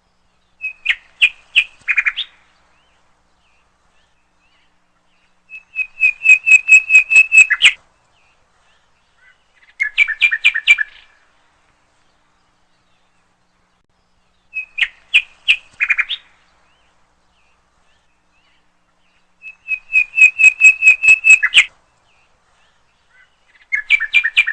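A songbird singing six short phrases, each a quick run of clear whistled notes about a second or two long, separated by pauses of a few seconds. The phrases follow a repeating pattern of three kinds.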